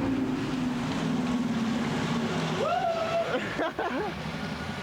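A vehicle engine running steadily with a low hum, and a brief high, gliding voice-like call about two and a half seconds in.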